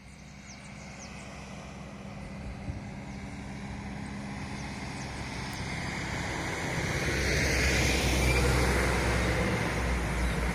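A vehicle approaching and passing, its sound growing steadily louder to a peak about eight seconds in and then easing off slightly. A few short bird chirps are heard in the first couple of seconds.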